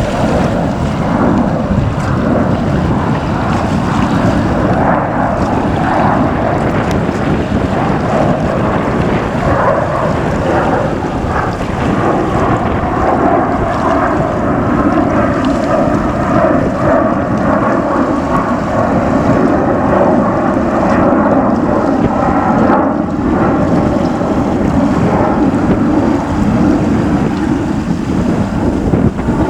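Jet engines of a departing Airbus A321 airliner running steadily loud, mixed with wind buffeting the microphone.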